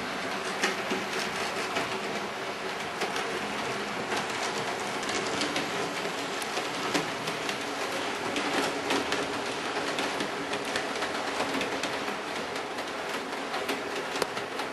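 Hornby model railway locomotive running on track: a steady rolling hum with many irregular sharp clicks of the wheels over the rail joints.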